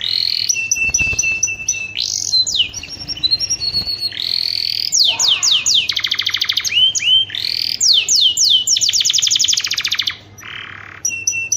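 Domestic canary singing a continuous song of repeated phrases: fast series of falling whistled sweeps, rapid trills and held steady notes.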